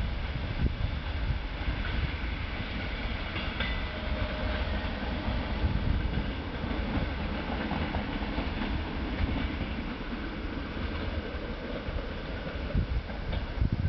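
A departing diesel-hauled passenger train rolling away along the rails: a steady rumble of wheels with some clickety-clack over rail joints. A brief high squeal sounds about four seconds in.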